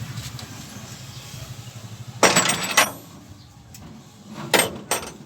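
Sharp clanks and knocks of hand tools or metal engine parts being handled: a quick cluster about two seconds in, then two more single knocks near the end, over a low steady hum.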